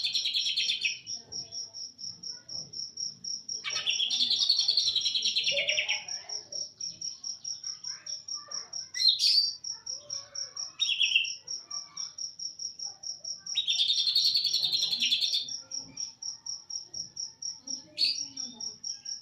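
Greater green leafbird (cucak ijo) singing in loud two-second bursts of rapid trilling, three times, the 'tembakan' that hobbyists prize, with a few short sharp calls between them. A steady high pulsed chirping, about four to five pulses a second, runs underneath.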